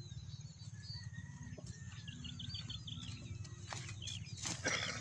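Birds chirping: many short, high calls in quick succession over a steady low rumble, with some rustling near the end.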